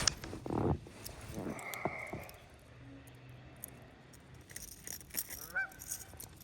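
A bird, likely waterfowl, calling a few times in short rise-and-fall calls, with a few low knocks in between.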